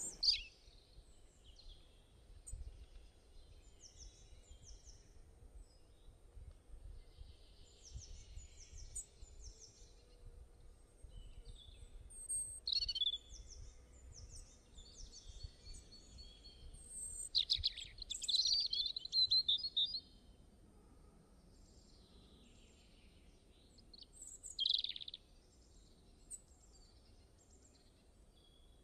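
Small birds chirping and calling in short, scattered high phrases, with a few louder trills, over faint low background noise.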